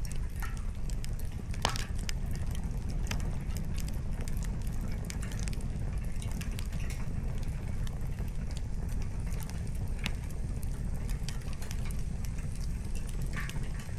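Wood campfire burning, the firewood crackling with scattered sharp pops at irregular intervals over a steady low rumble.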